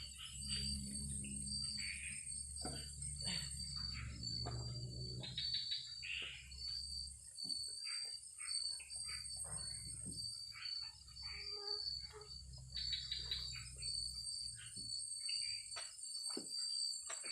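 Night insect chorus: a cricket chirping in a steady pulsed trill with a higher insect buzz that swells and fades, over scattered irregular clicks and knocks.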